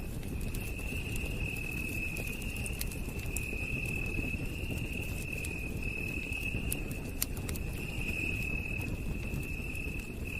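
Campfire crackling, with scattered sharp pops and a steady low rush of burning wood, under a continuous high-pitched trill of night insects that pulses gently about once a second.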